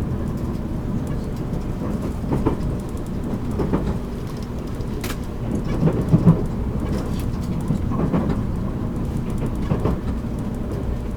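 Interior sound of a JR Kyushu 783 series train's motor car: a steady low hum and rumble with several irregular knocks and thuds, the strongest about six seconds in.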